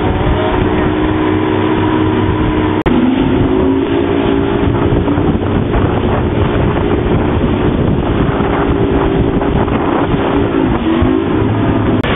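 A motor running steadily, with wind buffeting the microphone; its pitch dips and comes back up near the end, as with a throttle change. The sound breaks off for an instant about three seconds in.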